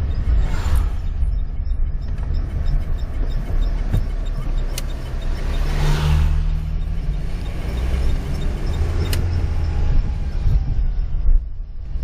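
Storm wind gusting hard, buffeting the microphone into a loud, surging low rumble, with a couple of sharp knocks about five and nine seconds in.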